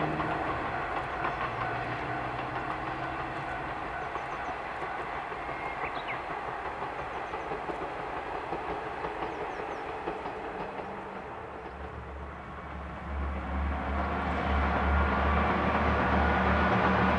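A KiHa 120 diesel railcar running on the track, its wheel and engine rumble slowly fading over about twelve seconds. Near the end a low, steady engine hum comes up and grows louder.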